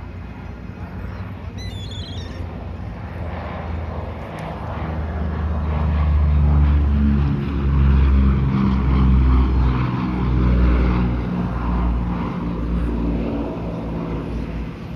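Twin Allison V-1710 V12 engines of a P-38 Lightning droning on a pass. The sound grows louder to a peak in the middle, then fades toward the end.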